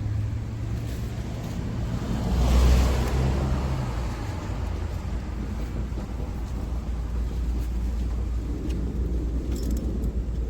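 A car engine running steadily with a low hum, swelling louder for about a second around two and a half seconds in.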